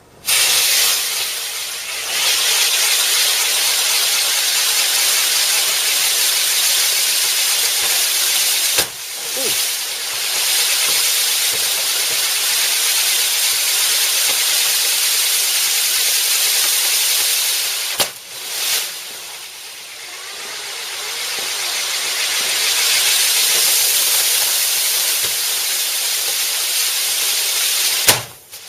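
Firework fountain spraying sparks with a loud, steady hiss. The hiss breaks off abruptly about 9 and 18 seconds in and starts straight up again.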